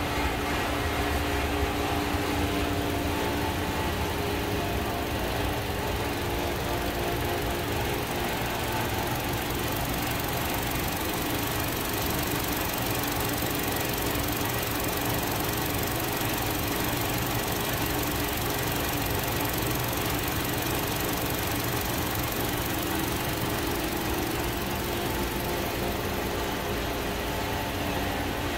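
Chevrolet Cruze 1.4-litre turbocharged Ecotec four-cylinder engine idling steadily, a constant even hum.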